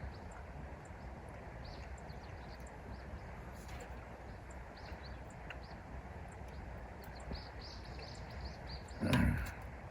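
Small birds chirping with short high notes, a quick run of them near the end, over a steady low outdoor rumble. A brief loud thump about nine seconds in.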